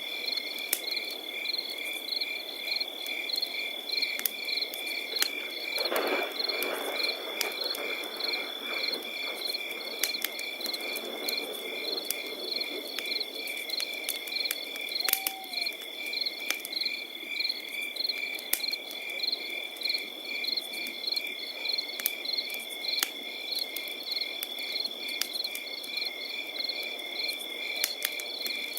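Crickets chirping without a break, a steady high trill with evenly pulsed chirps, over a campfire crackling with frequent sharp pops and a low hiss that swells briefly about six seconds in.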